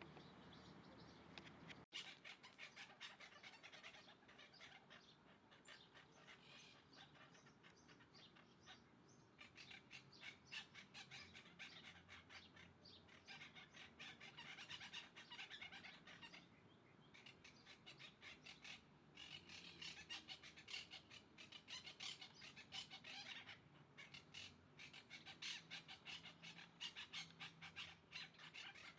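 Birds calling in fast, chattering runs of short notes that come in waves, faint overall.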